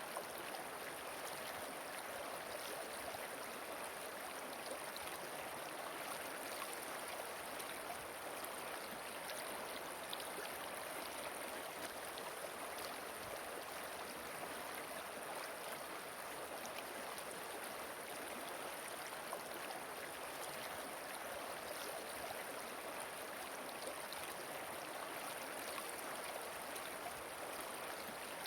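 Flowing stream water rushing steadily and evenly, with no change in strength.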